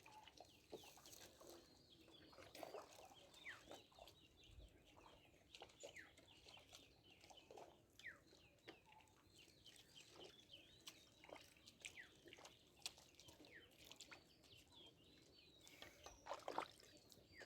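Faint bird calls: many short, falling chirps scattered throughout, over a quiet background.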